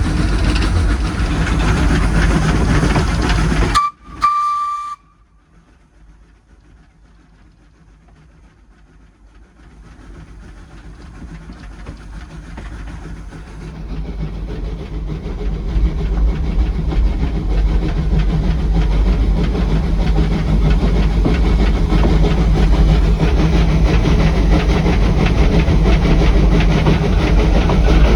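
Steam train running with a steady low rumble. About four seconds in, the sound drops away abruptly and a brief whistle toot sounds. The train noise then rises gradually from near quiet back to a steady rumble.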